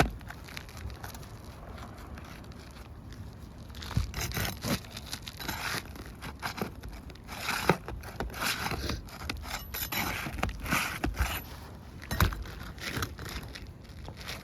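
Old asphalt roof shingles scraping and rustling as they are handled and pressed down, in irregular rough bursts, with a few sharp knocks, the loudest about eight and twelve seconds in.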